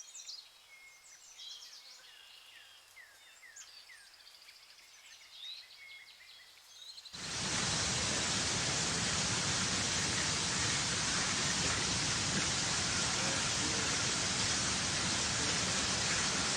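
Small birds chirping and calling faintly. About seven seconds in, this cuts abruptly to the loud, steady hiss of heavy rain.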